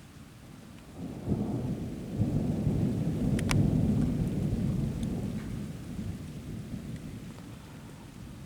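Rolling thunder from a nearby storm. The low rumble breaks in about a second in, swells to its loudest around the middle and slowly dies away, over steady rain.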